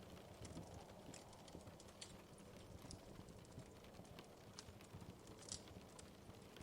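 Faint wood fire in a fireplace crackling, with irregular sharp pops and snaps over a low, steady rumble of the flames; a few louder pops about two, four and a half and five and a half seconds in.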